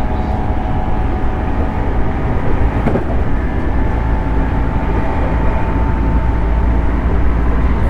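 Running sound of a JR 211 series electric multiple unit in motion: a steady rumble of wheels on rail with a constant hum of motor and gears, and a single click about three seconds in.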